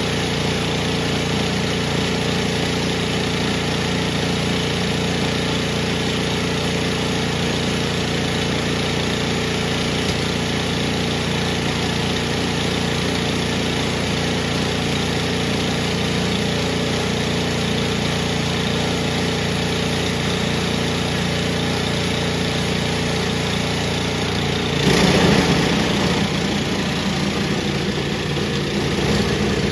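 Powermate 208cc overhead-valve single-cylinder snowblower engine running steadily after a tune-up. About 25 s in it briefly gets louder, and its note is lower and lighter afterwards.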